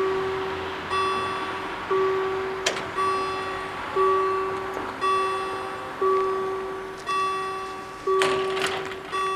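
Level-crossing warning bells striking about once a second, each ring dying away before the next. A short click about two and a half seconds in and a brief rattle near the end.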